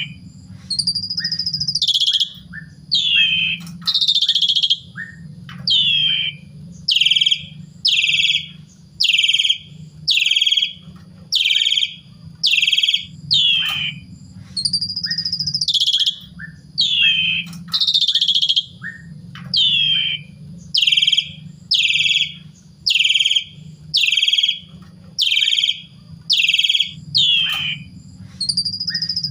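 Pied starling (jalak suren) calling over and over, about one loud, short falling note a second, with now and then a longer note, over a low steady hum.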